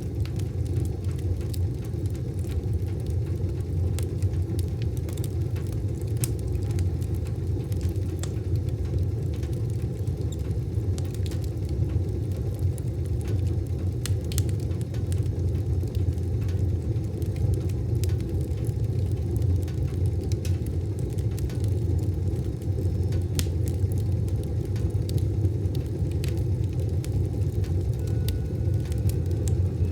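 Wood fire burning in a wood stove: a steady low rumble with scattered sharp crackles and pops.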